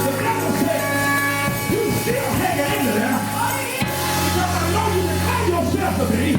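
Organ holding sustained chords, with a change of chord about four seconds in, under a preacher's voice chanting in a sing-song over the music.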